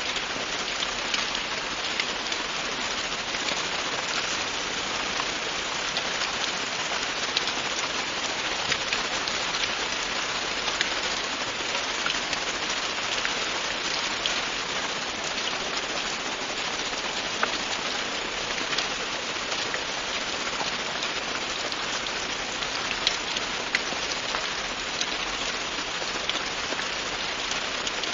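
Steady, continuous rain falling on a surface, a dense hiss with scattered individual drops ticking through it.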